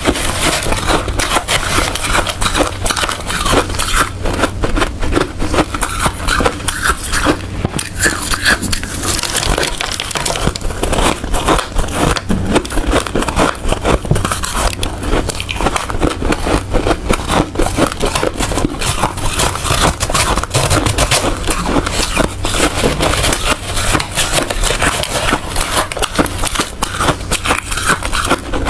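Hard ice being bitten and chewed close to the microphone: dense, continuous crunching and cracking.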